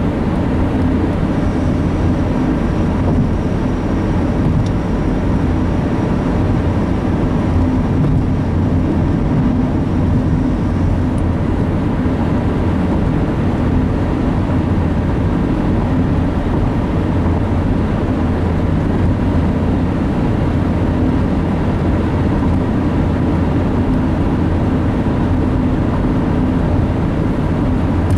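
Steady road and engine noise inside a moving car, heard from the cabin: a constant low rumble with no change in speed.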